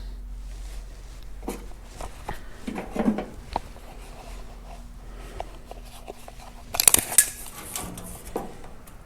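Clicks, knocks and a short metallic clatter from vise grips and clamps being worked on loose sheet-metal body panels as they are shifted into position. The loudest clatter comes about seven seconds in.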